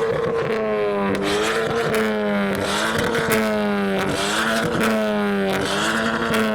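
Ford Fiesta ST Mk7's four-cylinder turbo engine held at high revs, dipping briefly about once a second as it is blipped against the limiter, with sharp cracks from the exhaust.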